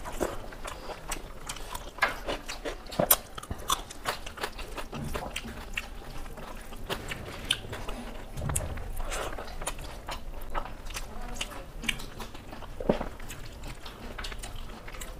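People chewing and biting mouthfuls of rice and curry eaten by hand, with frequent small wet clicks and smacks of mouth and fingers on food.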